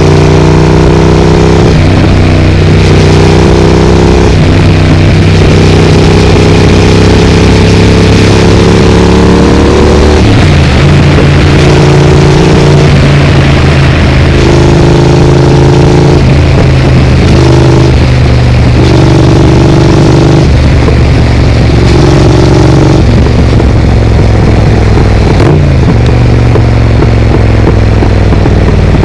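Triumph Speed Twin parallel-twin engine running through a Vance & Hines aftermarket exhaust while riding. The engine note climbs in stretches, breaking off and resuming several times as the throttle is rolled on and off through the gears.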